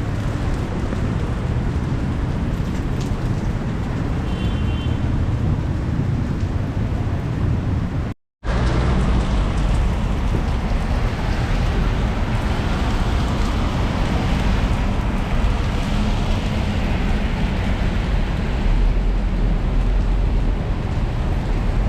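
Heavy rain pouring down, with road traffic running underneath as a steady low rumble. The sound drops out completely for a moment about eight seconds in.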